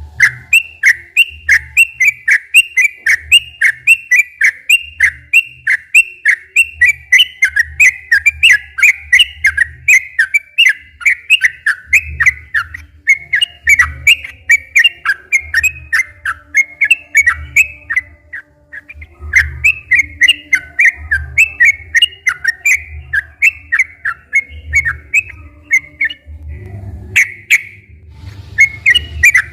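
Trucukan (yellow-vented bulbul) singing a long, fast run of bubbly, warbling notes, several to the second. There is a brief pause about two-thirds of the way through.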